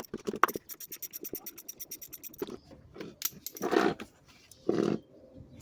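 Handling of tools and parts under a car's hood: clicks and scrapes, with a run of quick even ticks for about two seconds, then two short rustling scrapes.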